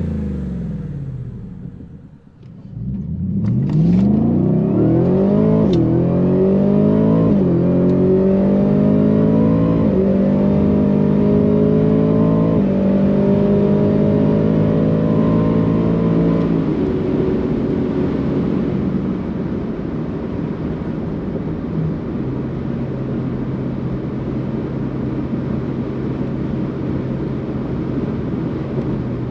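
Ford F-150 Raptor R's supercharged 5.2-litre V8 through an AWE SwitchPath cat-back exhaust, pulling hard from about two seconds in, its pitch climbing in steps with brief drops like upshifts. After about sixteen seconds it eases off and runs steadily at a lower pitch.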